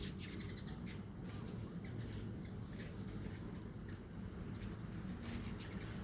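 Hummingbirds feeding and giving short, high chip calls: one about half a second in, then a quick cluster of several near the end, over a faint steady low hum.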